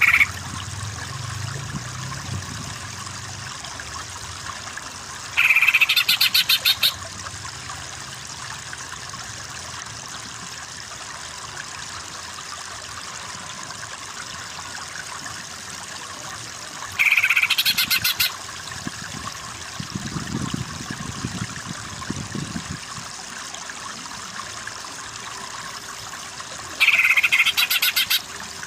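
Cucak ijo (greater green leafbird) giving a fast stuttering trill three times, each about one and a half seconds long, over a steady background of running water.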